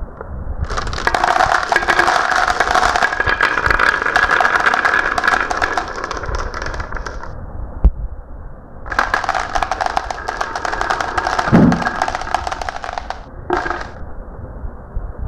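Marbles rolling and clattering down a marble run track: a long run of rapid clicking with a steady ringing tone, one sharp click, then a second, shorter run and a brief rattle near the end.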